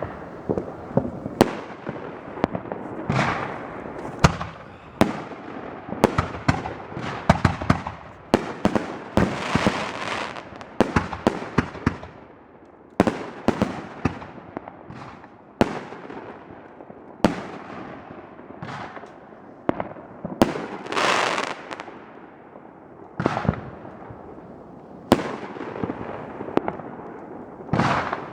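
Consumer firework cakes and shells going off in a fast, irregular barrage: dozens of sharp reports and breaks overlapping with hissing bursts, with a couple of short lulls between volleys.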